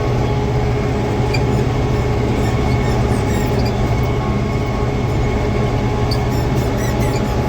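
Tractor engine running steadily while pulling a PTO-driven fertilizer spreader, with a squeaky seat giving short high squeaks now and then, most often near the end.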